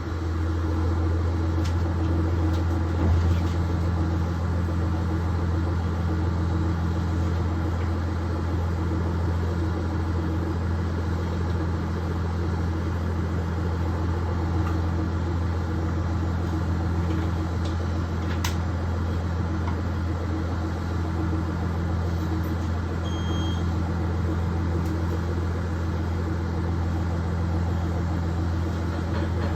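KiHa 110 series diesel railcar's engine idling steadily with a low, even hum while the train stands at a station. A short electronic beep sounds once, about three-quarters of the way through.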